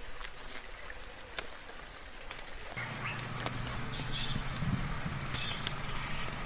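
Steady rain with many sharp drips, and birds giving short calls several times in the second half. A low steady hum comes in about three seconds in.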